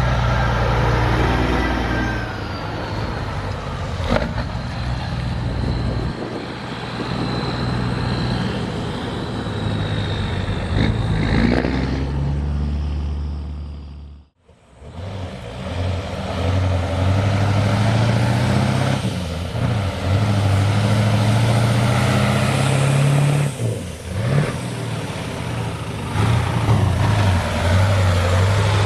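Heavy diesel truck engines running and pulling through, the engine note shifting up and down. There is a brief sharp drop-out about halfway through, after which the engine sound resumes.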